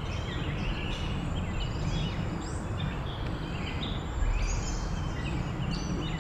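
Several songbirds chirping and trilling over a steady low outdoor rumble, which swells briefly about four seconds in.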